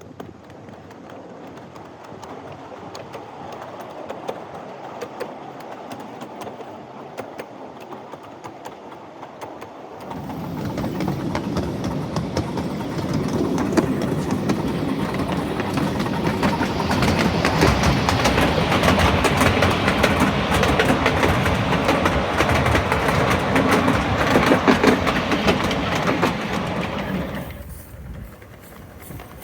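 A 7.5-inch-gauge miniature train running on the track, with its wheels clattering on the rails. The sound jumps sharply louder about ten seconds in, stays loud, and falls away suddenly near the end.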